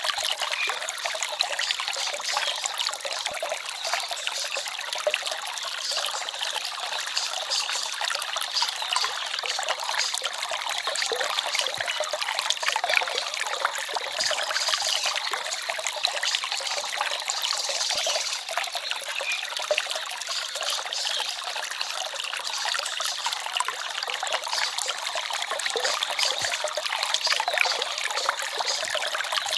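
Small forest stream trickling and babbling steadily over stones, a light splashing rush with little low rumble.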